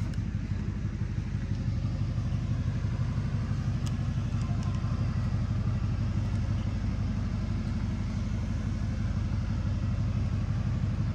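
A vehicle engine idling steadily, with an even low pulse that does not change.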